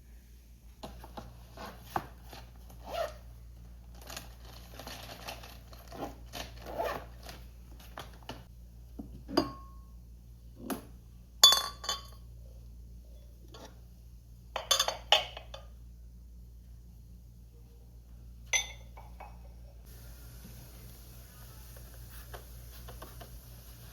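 Dishes and cutlery being handled: a string of separate clinks and knocks, irregularly spaced, the loudest about halfway through. Near the end a steady high hiss sets in.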